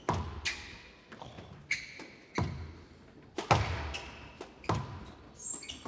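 A squash rally: the rubber ball is struck by rackets and smacks off the court walls in sharp hits about once a second. Short high squeaks come between the hits, typical of players' court shoes on the wooden floor.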